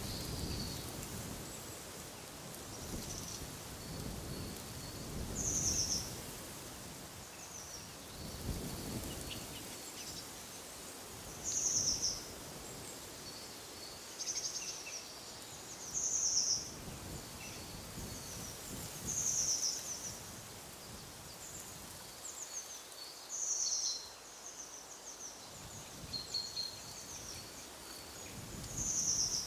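A songbird repeating a short, high call every few seconds, with fainter chirps between, over gusts of wind that come and go.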